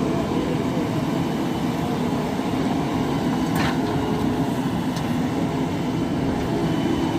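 Diesel engine of a JCB 3DX Super backhoe loader running steadily, with a brief hiss about three and a half seconds in.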